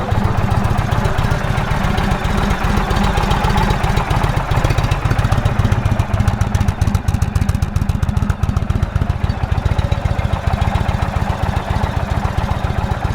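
Indian Thunder Stroke 111 air-cooled V-twin engine idling steadily, with a fast, even low pulse of firing strokes.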